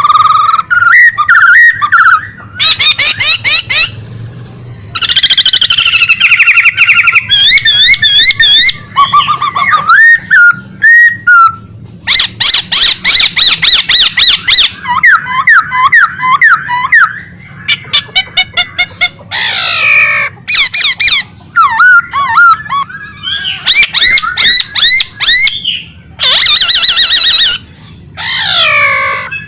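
A kept songbird in full song, singing loudly and almost without pause: a fast, varied run of whistles, rapid trills and harsh chattering phrases, broken only by short gaps.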